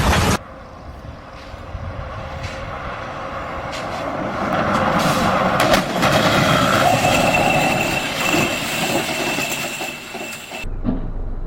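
Vehicle noise, a rushing sound that grows louder over several seconds, with a few sharp clicks and a steady high tone that comes in partway through and cuts off near the end.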